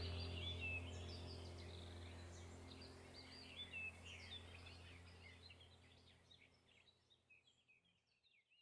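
Wild birds chirping in many short, quick notes over a low steady hum, the whole sound fading out gradually to silence near the end.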